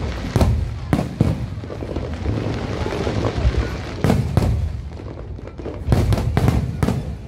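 Aerial fireworks shells bursting in quick succession: clusters of sharp bangs, with a spell of dense crackling from glittering shells in between.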